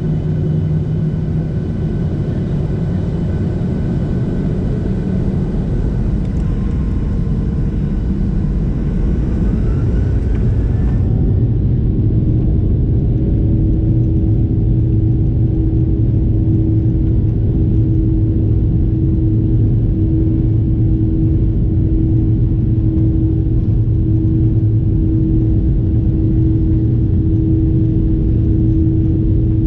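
Steady low rumble of a Boeing 737's jet engines heard from inside the cabin while the airliner taxis before take-off. About twelve seconds in, it grows slightly louder and a steady hum joins it.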